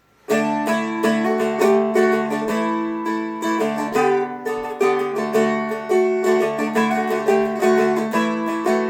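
Seagull Merlin M4, a four-string fretted dulcimer-style instrument, flatpicked: a quick picked melody over ringing open-string drones, starting about a third of a second in.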